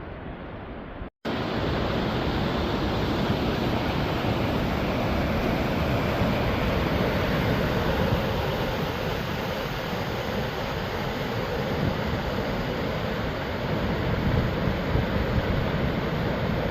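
Waterfall rushing, a steady loud churn of falling water. A brief cut about a second in, after which it comes back louder.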